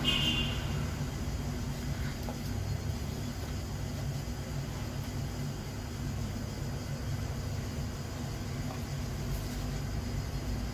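Steady low background hum and rumble with no clear events, and a brief faint scrape in the first half second.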